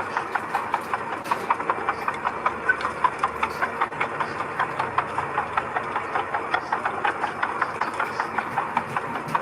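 Engine of a dump truck or mini bulldozer running steadily, with a rapid, irregular metallic clatter throughout.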